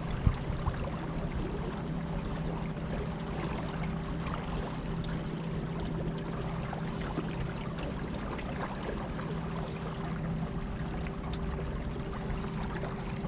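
Boat engine running at a steady pitch, with water rushing and splashing along the hull. A brief knock sounds just after the start.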